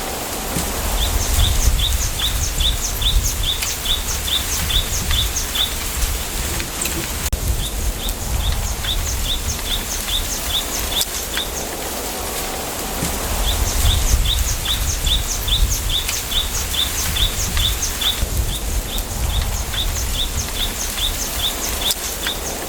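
A small bird repeating a short, high chirp in runs of about three or four a second, over wind rushing through a bamboo grove. Low wind rumble on the microphone swells twice.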